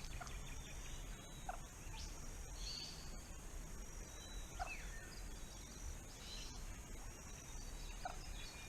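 Faint outdoor creek ambience: a steady high-pitched insect drone with three short bird calls, about three seconds apart.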